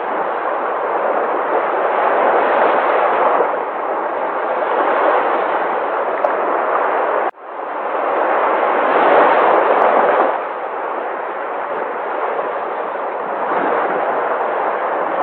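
Sea waves: a steady rush of surf that surges louder and eases every few seconds. Near the middle it cuts out for a moment and then comes straight back.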